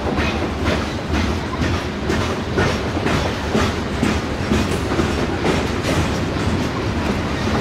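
Loaded coal hopper cars of a freight train rolling past: a steady clickety-clack of steel wheels over rail joints, about two clicks a second, over a low rumble.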